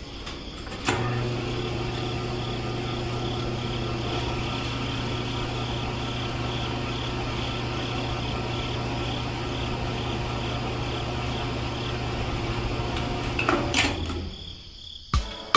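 Small electric motor of a DIY model running steadily with a constant hum. It switches on about a second in and stops near the end, followed by a few sharp clicks.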